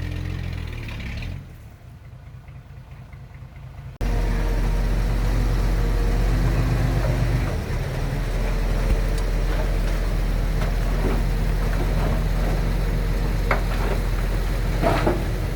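Heavy diesel engine of earthmoving machinery running steadily. It drops away about a second and a half in, comes back abruptly and louder at four seconds, and a few short knocks sound near the end.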